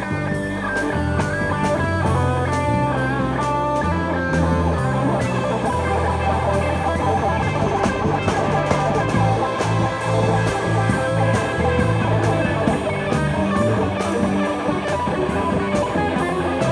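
Rock music played on electric guitar over bass and drums: an instrumental passage with a sustained lead guitar line and a steady beat.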